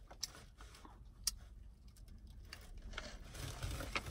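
Quiet eating sounds: chewing while handling a pancake, with a few scattered sharp clicks.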